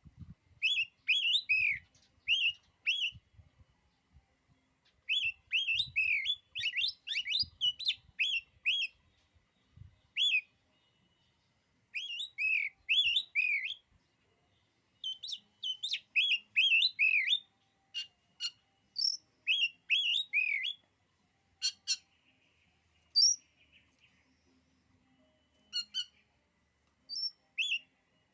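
Oriental magpie-robin (kacer) singing: repeated bursts of quick, sweet, falling whistled notes, with short pauses between phrases and a few sharp clicky notes mixed in later.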